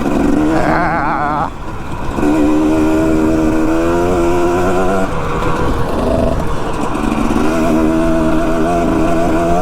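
Dirt bike engine running while riding, its pitch wavering and rising and falling with the throttle. It drops off briefly about a second and a half in and eases again around the middle before picking back up.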